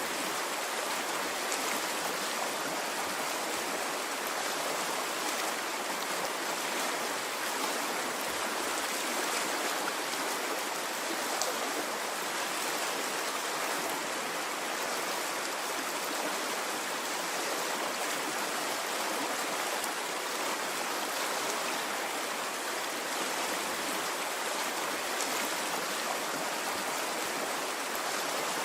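A stream flowing steadily: an even rushing of water with no rise and fall.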